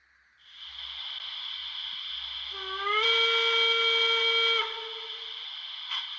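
Sound decoder of a Märklin 37843 model class 50 steam locomotive playing steam hiss, then a steam whistle that rises briefly in pitch and holds steady for about a second and a half before cutting off, with the hiss running on after it.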